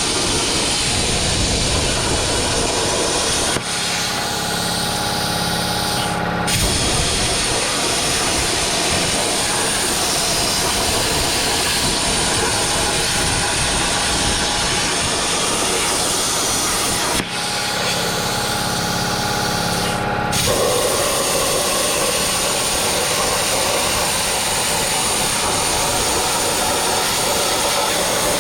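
Plasma cutter torch on a CNC plasma table cutting steel with a steady hissing arc. Twice, for about three seconds, the arc stops and a steadier tonal hum is left, as the torch moves between cuts.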